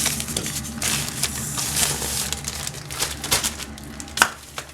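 Plastic bag crinkling and rustling as a removed shower head is handled and put into it, with irregular crackles and a sharp crack about four seconds in.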